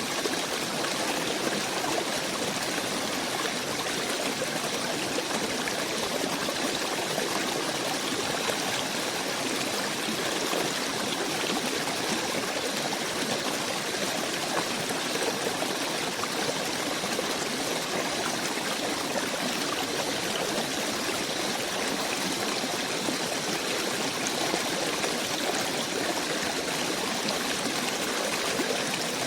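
Steady flowing water of a stream, an even rushing sound that does not change.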